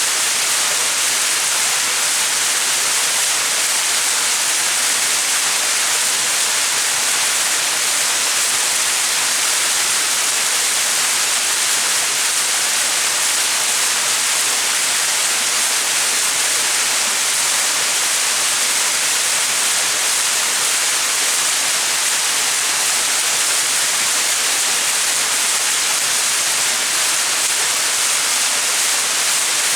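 Small mountain waterfall: water falling and splashing steadily, an even, hissing rush with no changes.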